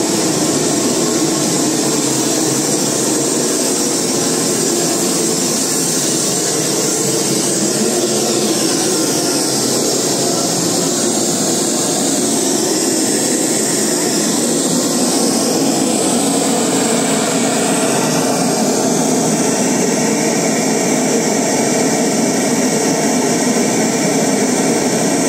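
Steady, loud mechanical noise of machinery running, with a constant hiss and no breaks.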